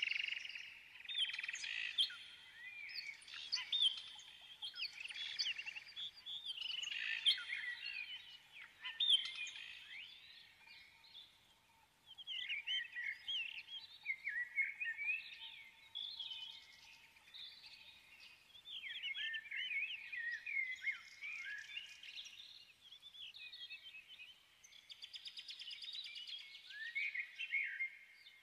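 Birds chirping and singing in a dense, continuous run of short rising and falling calls, which thin out briefly about eleven seconds in.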